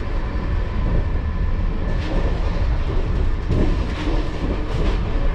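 Steady low rumble of a moving passenger train heard from inside a sleeper coach: running noise of the wheels on the track and the coach body.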